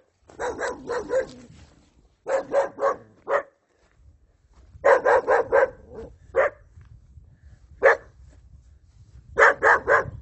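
Dog barking in quick volleys of three to five barks, six times over, with short pauses between.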